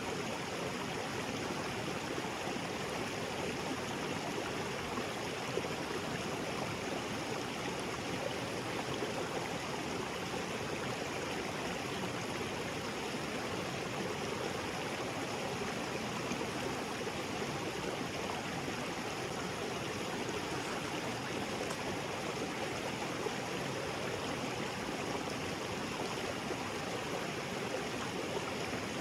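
Small waterfall spilling into a rocky creek: steady rushing and splashing water with a gurgle.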